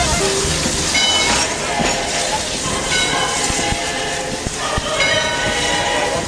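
Open-sided wooden passenger carriages of a tourist train rolling past and pulling away, the wheels knocking in irregular clacks over the rail joints.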